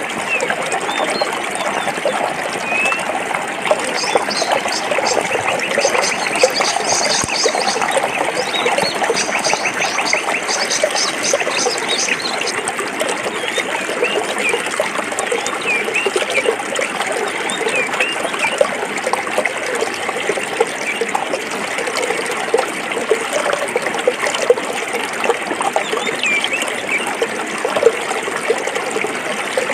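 Forest stream flowing and splashing over rocks, a steady babble. Birds chirp briefly now and then over it, and a rapid high trill runs from about four seconds in to about twelve seconds in.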